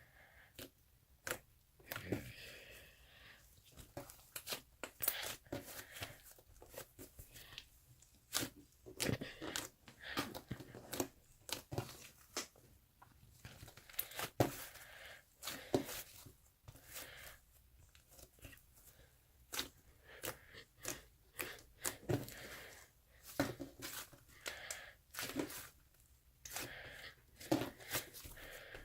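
Close handling noises: irregular sharp clicks and short rustling or tearing sounds, like paper or small objects being handled.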